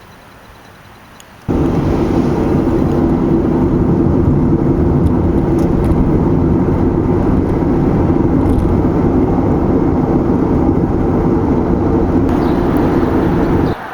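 Steady, loud rumble of vehicle and road noise, starting abruptly about a second and a half in and cutting off just before the end.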